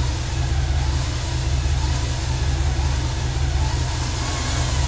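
Off-road vehicle engine idling with a steady low rumble.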